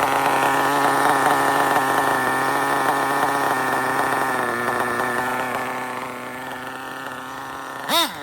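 RB CE sealed-backplate nitro engine in an RC drag car running steadily, tuned a little lean on the low end. It gets quieter from about six seconds in, then revs up and back down twice in quick succession near the end.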